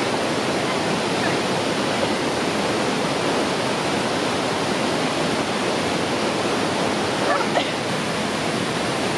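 Creek swollen with heavy rain, water rushing steadily and loudly over rocks.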